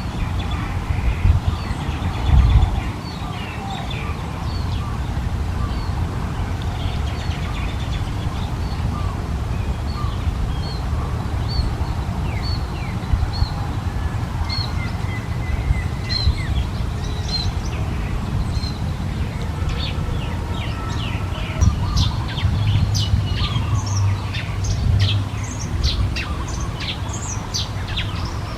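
Small birds chirping with many short, high calls, coming thick and fast in the last third. A steady low rumble runs underneath.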